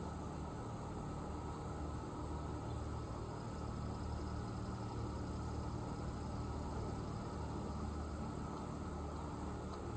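Crickets trilling in one continuous high-pitched drone, over a low steady rumble.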